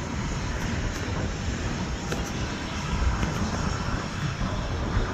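Jet airliner engine noise at an airport, a steady rushing sound, with wind buffeting the microphone in uneven low rumbles.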